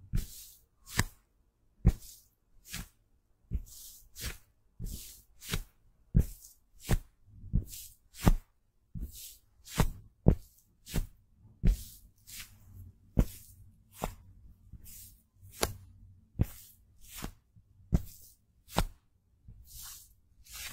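Close-miked makeup application: a steady run of short, crisp strokes, about one and a half a second, with a faint low rumble underneath.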